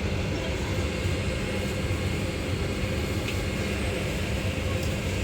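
Steady interior rumble of a moving vehicle, even and unbroken, with a low hum underneath.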